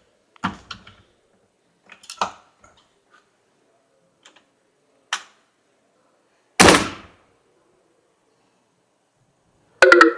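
Scattered knocks and bumps inside an old truck cab as someone shifts about in it, with one loud thump about six and a half seconds in and a quick rattle of clicks near the end.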